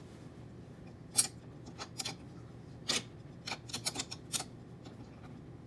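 Irregular light clicks and taps of small metal parts and a hand tool being handled while squaring up and fitting a part on a 3D printer's carriage, about a dozen in all, the sharpest about a second in.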